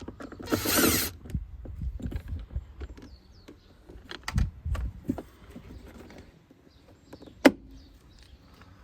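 Door handle trim on a VW Passat B6 door panel being worked loose by hand: a loud scraping rustle about half a second in, then scattered clicks and knocks, and one sharp click near the end.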